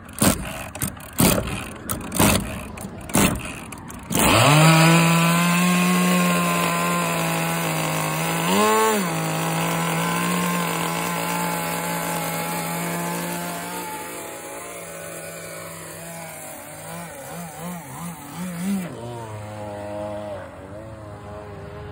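Small two-stroke model engine, a Zenoah G260PUM clone, on its first run: several short pull-start bursts, then it catches about four seconds in and runs steadily at a high pitch. It revs up briefly near nine seconds, blips unevenly a few times near the end and then settles to a lower speed.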